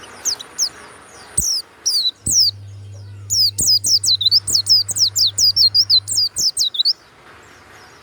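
White-eye (pleci) singing: a few sharp, high, down-slurred chirps, then from about three seconds in a fast, loud run of high descending notes that lasts about three and a half seconds and stops abruptly.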